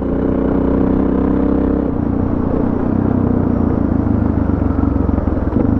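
Suzuki DR650 single-cylinder engine running under way at a steady pitch, which drops and turns rougher about two seconds in.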